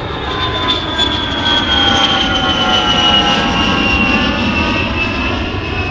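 Airbus A320neo's Pratt & Whitney geared turbofan engines running loud and steady, with several high whining tones gliding slowly down in pitch.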